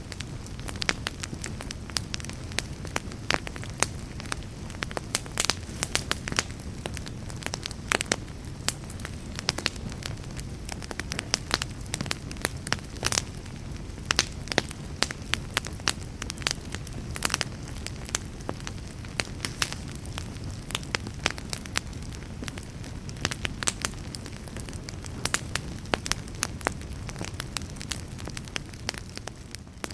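Wood fire burning with a steady low rumble and frequent, irregular sharp crackles and pops.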